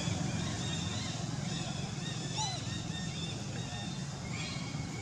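A steady low rumble like a running engine or traffic, with scattered short, high-pitched chirping calls over it.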